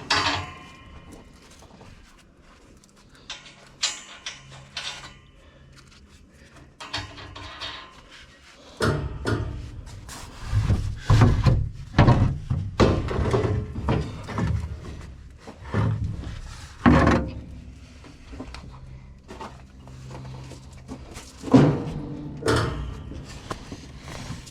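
Irregular knocks and clunks, a busy run of them from about 9 to 17 seconds in and a few more around 4 and 22 seconds, over a faint steady low hum.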